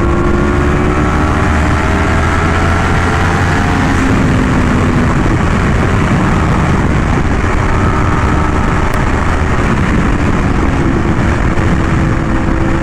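Yamaha R1M's crossplane inline-four with an SC Project exhaust running at road speed. Its pitch climbs slowly over the first few seconds, then holds steady under a constant rush of wind noise.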